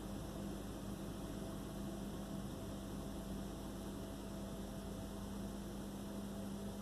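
A steady low electrical hum over constant background hiss, with no distinct events.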